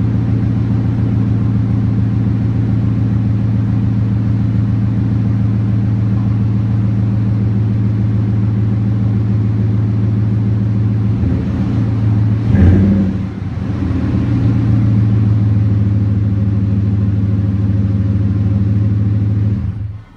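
2010 Ford F-150's V8 idling steadily after a cold start through a Flowmaster 40 muffler and Raptor cat-back exhaust, with one short blip of the throttle about twelve seconds in. The sound cuts off suddenly at the very end.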